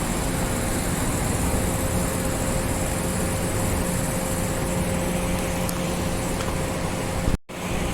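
Steady machine noise with a constant hum, broken by a brief dropout near the end.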